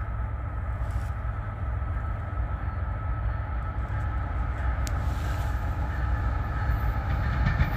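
Distant diesel locomotive leading a coal train, a GE AC4400CW (CW44AC), approaching with a steady low rumble that grows slowly louder.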